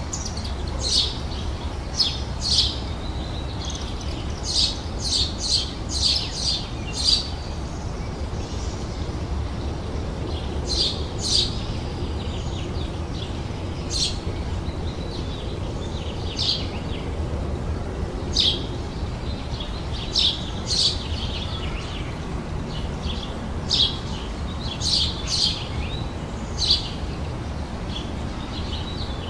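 Small birds chirping: short, sharp, high chirps, some in quick runs of three or four, others singly every second or two. Under them runs a steady low rumble.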